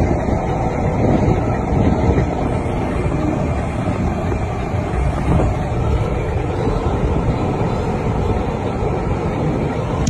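Steady road rumble of a car driving on a wet highway in the rain, a dense, even noise of tyres, engine and wind with no distinct events.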